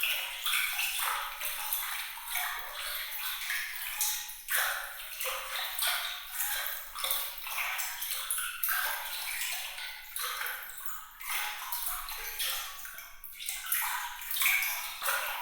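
Water trickling and splashing, a continuous, irregular patter of many small bright plinks with no low rumble.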